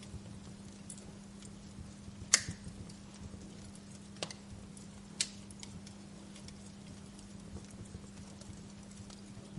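Wood fire crackling: scattered faint clicks with three louder, sharper pops in the middle, over a steady low hum.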